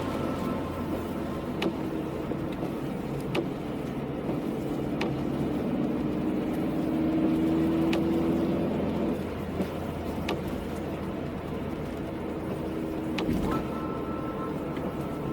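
Car driving in the rain, heard from inside: steady engine and tyre noise, with the engine note rising briefly about halfway through. A short click comes about every 1.7 seconds, the beat of the windscreen wipers.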